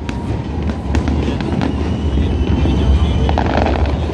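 Aerial fireworks exploding: a run of sharp cracks, most of them in the first two seconds, over a continuous low rumble of booms.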